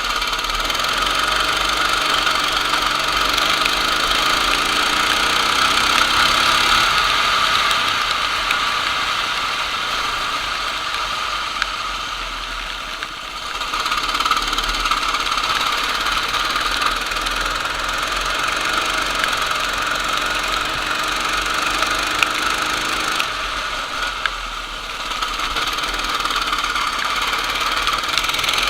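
Racing kart engine at speed, its pitch climbing as it accelerates, then easing off twice, about halfway through and again near the end, before winding back up.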